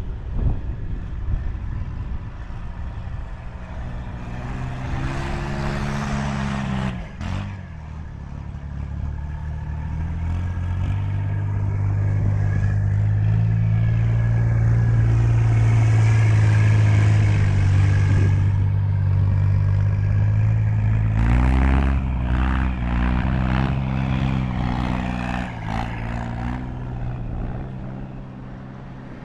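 Swamp Rider all-terrain vehicle's engine working hard through deep snow, its pitch rising and falling with the throttle. It settles into a loud, steady pull in the middle and revs up and down again near the end.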